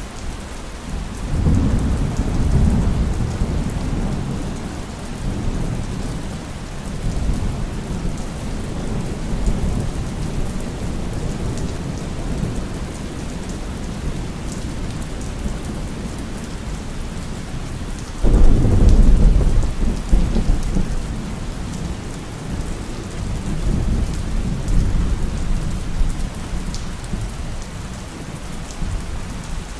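Heavy rain falling steadily with rolling thunder: a low rumble builds about a second in, and a louder clap breaks about eighteen seconds in and rumbles on for several seconds.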